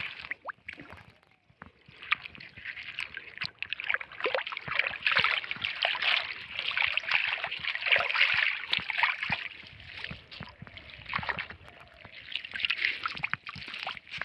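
River water splashing and sloshing in irregular bursts as plastic litter is pulled out of it.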